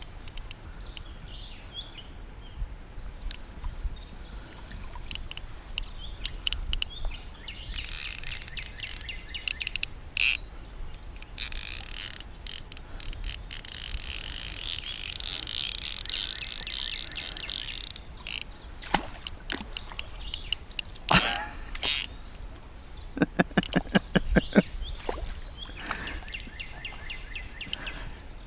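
Outdoor river ambience with frogs, insects and birds calling, broken by scattered knocks and splashy noise from the kayak and fishing tackle. About two-thirds of the way through comes a quick run of about a dozen evenly spaced clicks.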